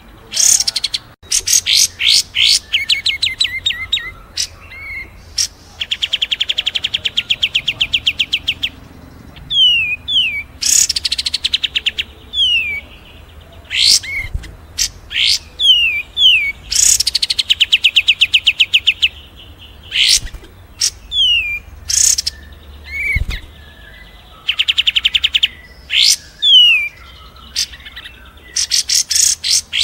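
Several small songbirds singing together in a birdsong training track: fast buzzy trills, sharp chirps and short falling whistles follow one another without a break.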